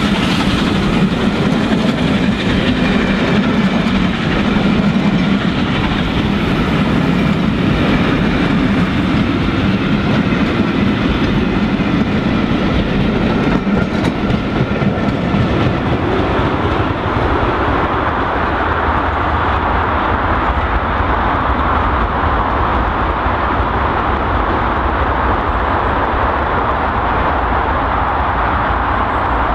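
Passenger coaches of a steam-hauled train rolling past close by, wheels clattering over the rail joints. From about halfway the heavy rumble gives way to a steadier hiss as the train draws away.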